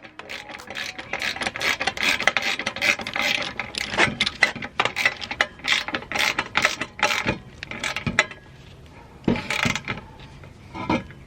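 Hand ratchet wrench clicking in rapid, dense runs for several seconds as the exhaust sections are bolted together, then going quieter with a couple of separate knocks near the end.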